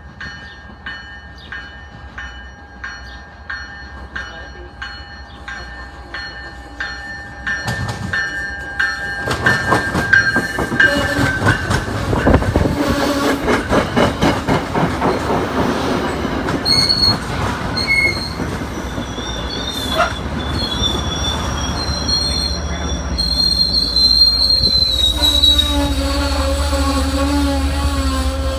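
Diesel-hauled commuter train passing close: a bell rings steadily about twice a second as it approaches, then the coaches' wheels clatter rhythmically over the rail joints and squeal in high, wavering tones. Near the end a steady low drone from the diesel locomotive comes in.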